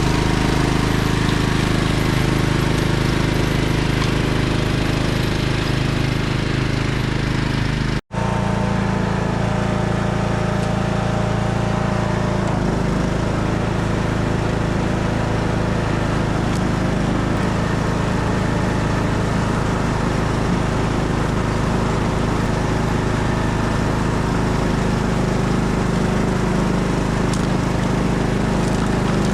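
John Deere lawn tractor engine running steadily under load, with its snow blower attachment engaged. The sound cuts out for an instant about eight seconds in, then carries on.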